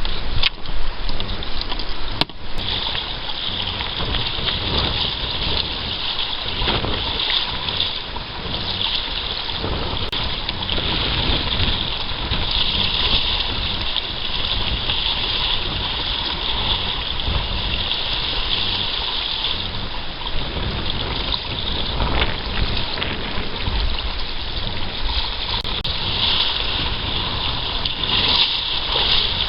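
Water rushing and splashing steadily along the hull of a small craft under way, with wind rumbling unevenly on the microphone.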